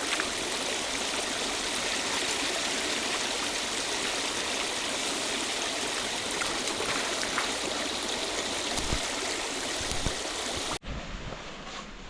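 Steady rushing of flowing river water. About eleven seconds in it cuts off suddenly to a quieter, duller outdoor background.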